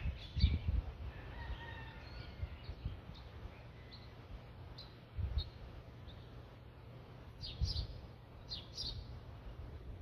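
Birds chirping in the background: short high chirps scattered through, coming in quick pairs near the end. A few low thumps sound underneath.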